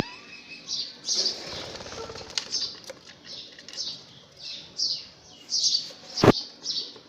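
Parrot giving short, high chirps over and over, roughly two a second, with a brief flutter of wings about one and a half seconds in and one sharp loud click about six seconds in.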